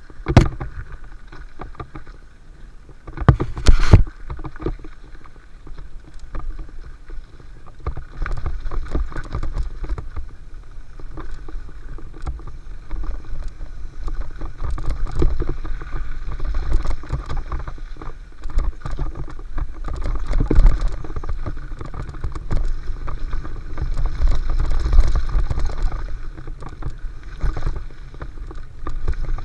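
Mountain bike riding down a dirt flow trail: a steady rumble of wind and tyre noise with the bike rattling and sharp knocks over bumps. The loudest knocks come just after the start and again about three to four seconds in.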